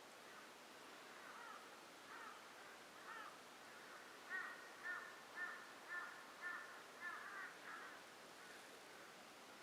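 A bird calling in a series: a few faint calls, then a run of about seven louder, evenly spaced calls, roughly two a second, that stops a little before the end.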